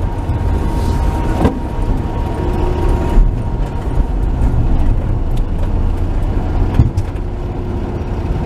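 1949 Chevy pickup truck driving, heard from inside the cab: a steady low engine and road rumble, with a few brief knocks.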